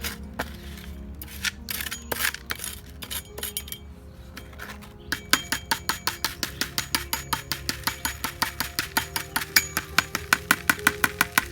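Gravel and small stones clinking against a gold pan as it is shaken, in irregular clicks at first, then from about halfway in a fast even run of about five clinks a second. Background music with a steady drone runs underneath.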